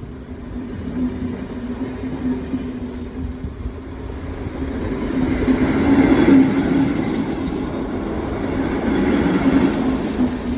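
MÁV class 433 ('Szili') electric locomotive with an InterCity train going by: a steady low hum over rolling rail noise that swells to its loudest about six seconds in and again near the end.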